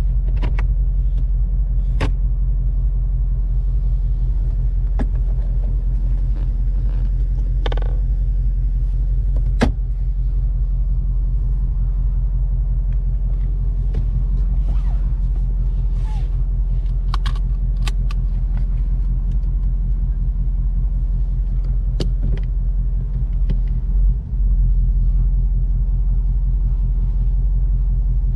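Ford Mustang GT's 5.0-litre V8 idling with a steady low rumble, with scattered sharp clicks and knocks from the car's interior parts, such as the glovebox, being handled.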